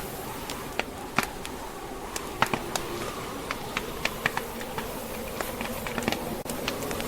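Log fire burning in a fireplace, crackling with irregular sharp pops and snaps over a steady hiss, with wind from a snowstorm behind it.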